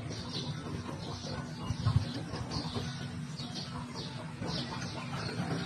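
Birds chirping, short high calls repeating about twice a second, with a single low thump about two seconds in.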